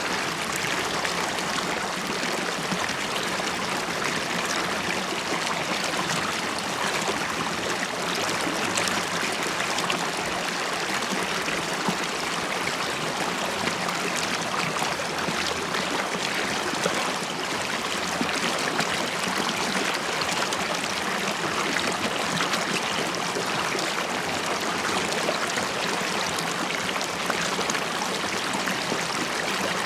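River water flowing and bubbling steadily over stones, with fine splashing and gurgling throughout.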